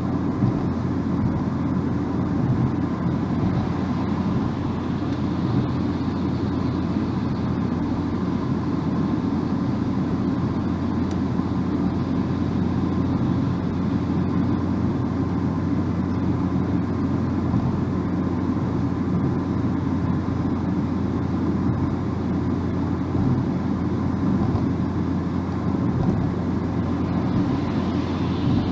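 Steady low road and tyre noise of a car driving at speed, heard from inside the cabin, a constant drone without changes.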